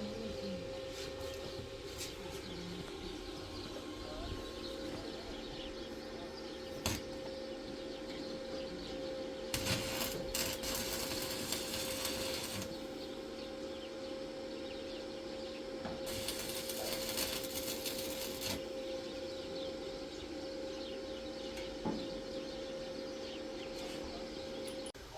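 Electric arc welding: the welding machine hums steadily, and two spells of arc hiss and crackle of about three seconds each come in the middle. The hum cuts off suddenly near the end.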